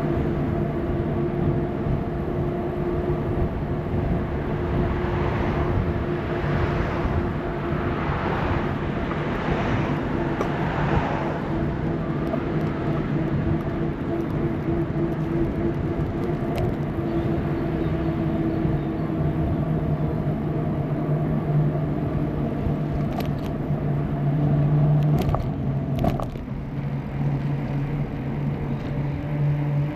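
Bicycle ride heard from a camera on the move: constant low rumble of tyres rolling and wind on the microphone, with a steady hum, and a few short clicks or rattles near the end.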